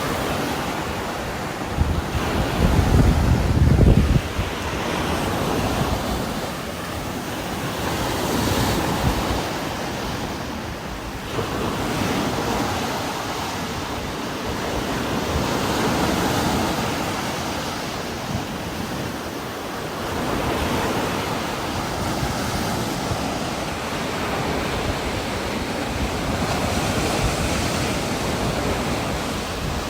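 Heavy rain falling steadily while strong wind gusts through trees, the noise swelling and easing every few seconds. About two to four seconds in, a stronger gust brings a deep low rumble.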